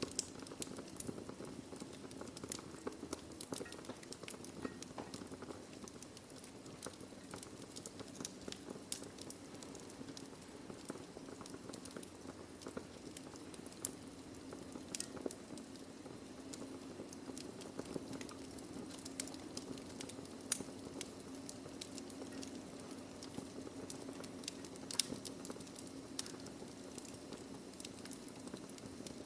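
Wood fire burning in a fireplace: a steady low hiss and rumble under constant fine crackling, with scattered sharper pops of burning logs, the loudest about two-thirds of the way through.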